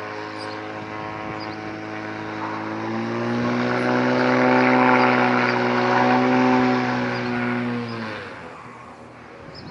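Light single-engine propeller airplane's piston engine running, a steady droning hum that grows louder midway, then drops slightly in pitch and fades out near the end.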